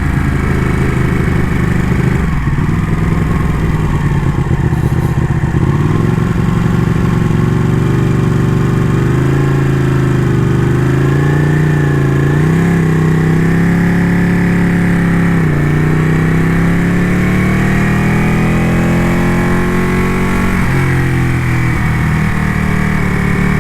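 Ducati motorcycle engine under way, its revs rising and falling with the throttle through a run of curves. The pitch drops sharply about 15 seconds in and again about 21 seconds in as the throttle is rolled off, then climbs again.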